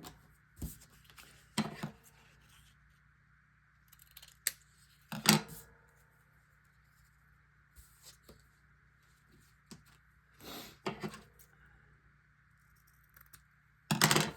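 Paper and craft supplies handled on a tabletop: scattered short rustles, taps and snips, with louder ones about five seconds in and near the end, over a faint steady hum.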